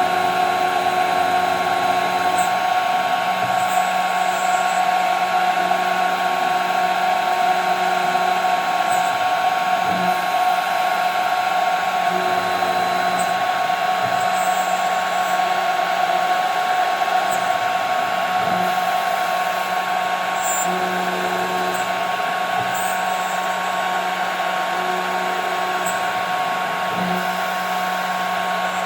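CNC router spindle running steadily at high speed with a constant whine, its bit cutting 5 mm plexiglass; the cutting sound eases off slightly about two-thirds of the way through.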